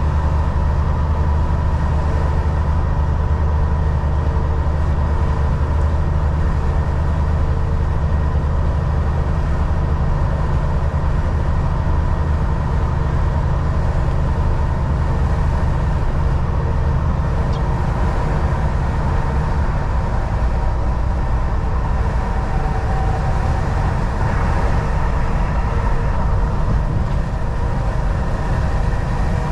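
Volvo VNL 760 semi truck cruising on the highway: a steady low engine drone over even road and tyre noise. The engine note shifts slightly a little over halfway through.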